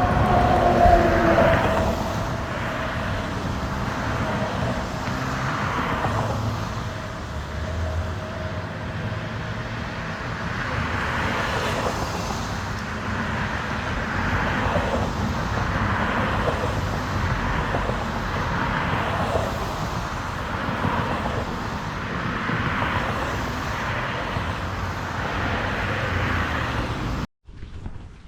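Steady road noise with wind rumble, swelling and easing; a brief falling tone near the start. The sound cuts off abruptly near the end.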